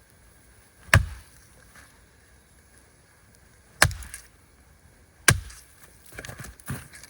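Three sharp chopping strikes on wood a few seconds apart, each with a heavy low thud, followed by a few lighter knocks near the end.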